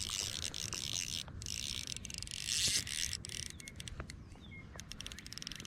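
Outdoor pondside ambience: a high, pulsing insect chorus, with a couple of short bird chirps about four seconds in.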